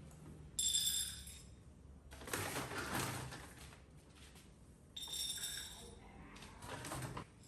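A metal bowl rings out twice, about half a second in and again about five seconds in, each time starting sharply with a high ring that fades over about a second. Short rustling noises come in between.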